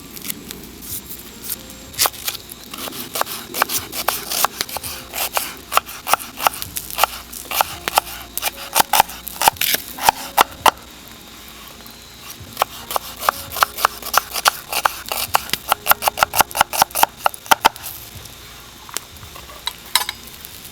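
Knife chopping food on a wooden cutting board: runs of quick sharp chops, several a second, broken by a short pause about halfway and thinning out near the end.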